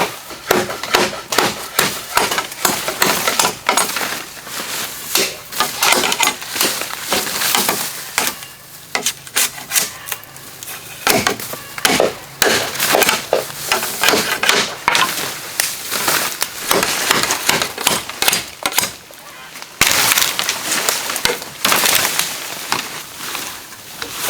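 Bamboo being chopped and split with a blade: many quick, irregular cracking strikes of wood splintering.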